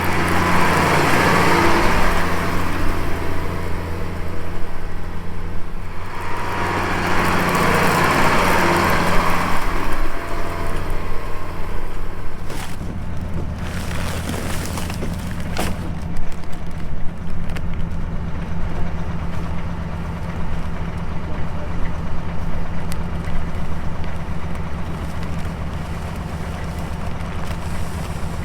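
Farm vehicle's engine running steadily while driving across a field. There are two spells of hissing noise in the first ten seconds.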